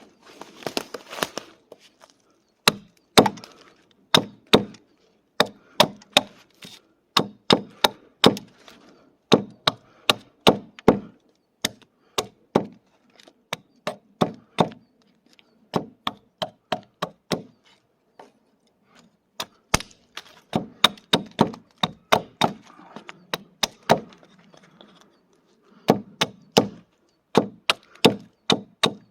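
Firewood being chopped with a hatchet: a long run of sharp wooden strokes in irregular bunches, with short pauses between them.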